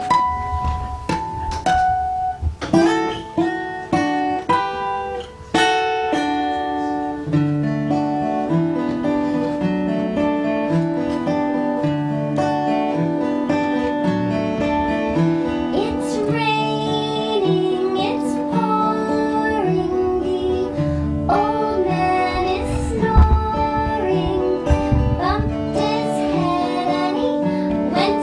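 Acoustic guitar playing a folk song. A few separate chords come in the first few seconds, then steady strummed accompaniment.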